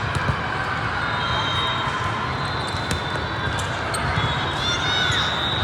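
Busy indoor volleyball hall: sneakers squeak on the court floor and volleyballs are struck and bounce, over a steady hum of crowd voices. A cluster of squeaks comes near the end.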